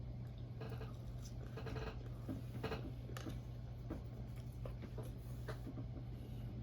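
Close-miked chewing and wet mouth sounds of someone eating pancakes: irregular soft smacks and clicks, a few slightly louder ones in the first three seconds, over a steady low hum.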